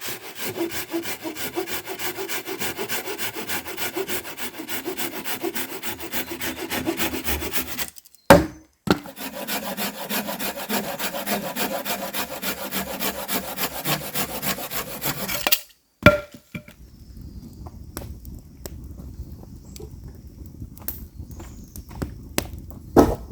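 Hand sawing through wood in two long runs of quick, even strokes, each ending with a sharp knock. After the second knock the sawing stops, leaving a low rumble with scattered light clicks and one loud knock near the end.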